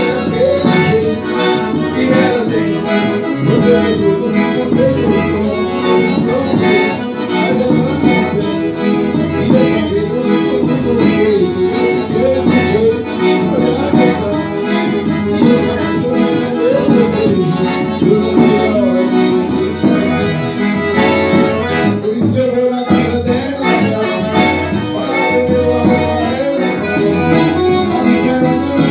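Live forró music led by an accordion playing a busy melody over a steady percussion beat, with a brief drop in the sound about three quarters of the way through.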